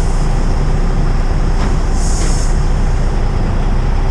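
Heavy vehicle engine running steadily with a low rumble, and a short hiss of air about two seconds in.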